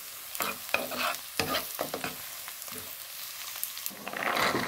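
Sliced onions and garlic sizzling in oil in a nonstick frying pan, stirred with a spatula that scrapes and taps against the pan. About four seconds in, diced raw potatoes are tipped in from a bowl and the sizzle grows louder.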